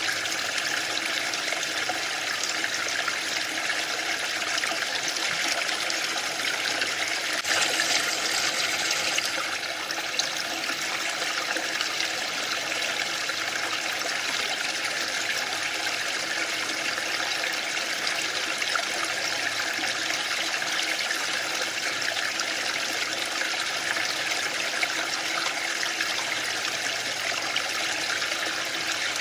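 Waterfall: a steady rush of falling water, briefly a little louder and hissier about eight seconds in.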